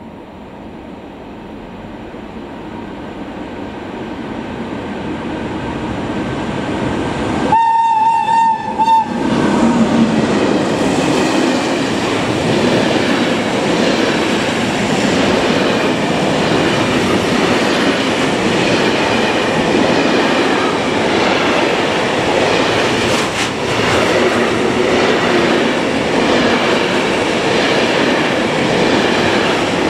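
A train approaches and grows steadily louder, sounds a short horn blast about eight seconds in, then passes close by. Its wheels on the rails keep up a loud, steady rolling clatter.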